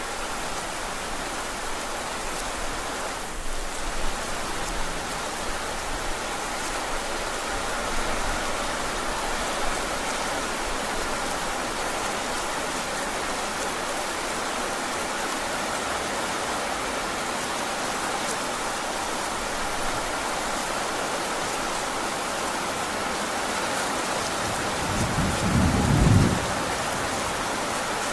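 Heavy rain falling steadily, with a short low rumble of thunder swelling and fading a few seconds before the end.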